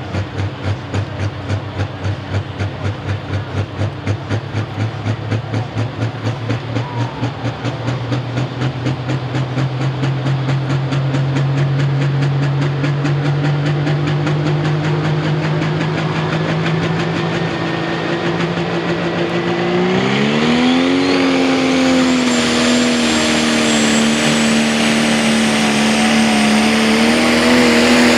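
Pro stock pulling tractor's turbocharged diesel engine running with an uneven, pulsing beat, the revs creeping up slowly. About twenty seconds in the revs climb sharply and a turbo whine rises high, the engine then held near full throttle and growing louder.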